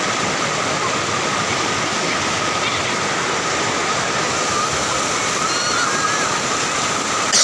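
Steady, loud rush of water from the Cigentis waterfall.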